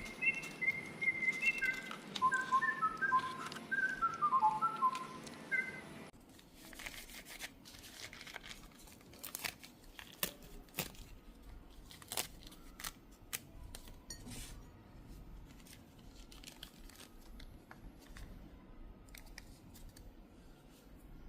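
A quick run of short, high whistled notes at a few set pitches that stops abruptly about six seconds in. After that come scattered faint clicks, taps and crinkles from small things being handled.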